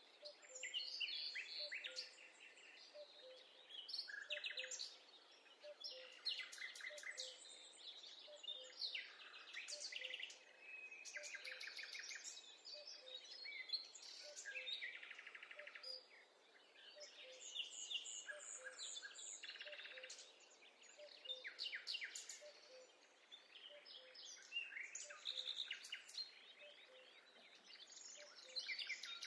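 Several songbirds singing at once, short overlapping phrases of chirps and quick trills, over a faint steady hiss. A soft low note repeats steadily beneath them.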